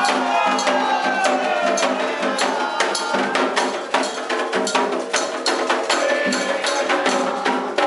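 Candomblé ritual music: voices chanting in gliding lines over steady, rhythmic percussion with sharp, repeated strikes.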